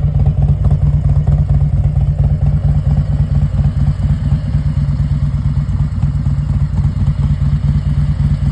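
2018 Harley-Davidson Road Glide Special's V-twin engine idling steadily with an even, lumpy low pulse, exhausting through a two-into-one pipe.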